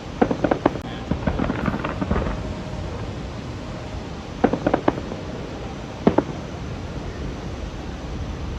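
Aerial fireworks going off in quick clusters of sharp bangs: several in the first two seconds, another tight cluster about halfway through, and a single bang shortly after, over a steady low rumble.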